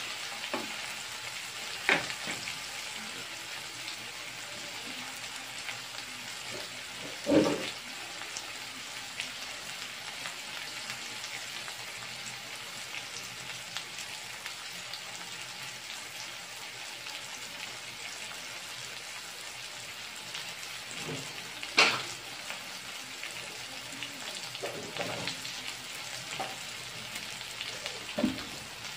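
Chopped tomato, green chili, onion and garlic sautéing in oil in a wok, giving a steady sizzle. A few sharp knocks stand out above it, the loudest about 7 and 22 seconds in.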